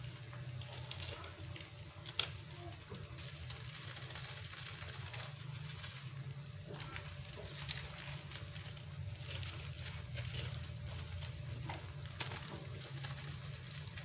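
Hot stir-fried noodles faintly sizzling and crackling in a wok, with a sharp knock of the wooden spatula against the pan about two seconds in. A low steady hum runs underneath.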